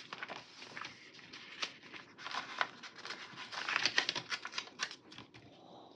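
Paper sticker sheets rustling and crinkling as they are handled, with irregular light clicks and taps, busiest in the middle and fading near the end.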